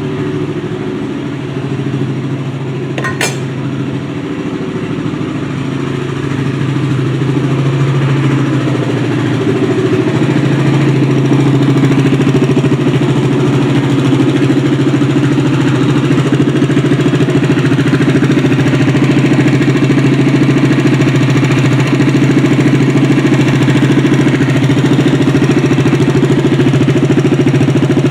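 Small unmuffled engine on a longtail boat motor, running with its exhaust through a bare header. It runs steadily, gets louder between about six and twelve seconds in as it is opened up, then holds at the higher speed.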